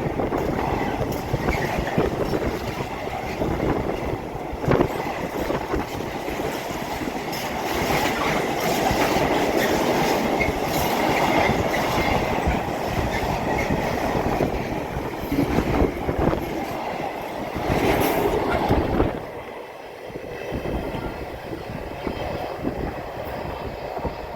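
A train running along the track: steady rail noise with sharp clicks now and then, dropping away and quieter about nineteen seconds in.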